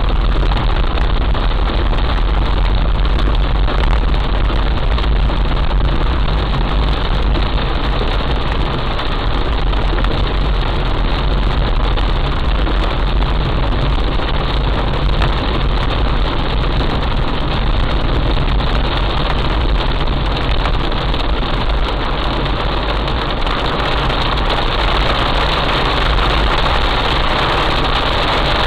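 Heavy rain pouring down, a dense, steady rush with a deep rumble underneath. It turns slightly brighter about three-quarters of the way through.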